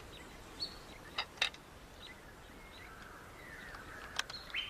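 Outdoor evening ambience: a faint steady hiss with scattered short high chirps and calls, and a few sharp clicks, two about a second in and one near the end.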